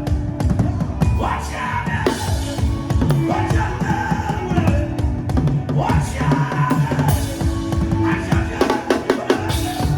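Music: dense, continuous drumming with voices singing over it.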